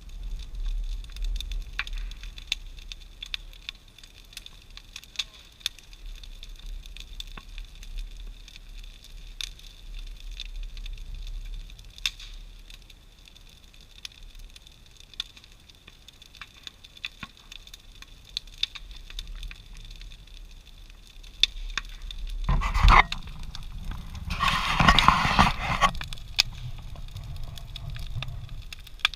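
Large wood bonfire burning, crackling with many scattered sharp pops over a low rumble. Near the end a louder rushing burst of noise comes twice, the second lasting about two seconds.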